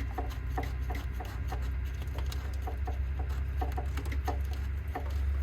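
Small irregular clicks and scrapes of a quick-drain oil fitting being screwed by hand onto the spring-loaded drain valve in a tractor's oil pan, over a steady low hum.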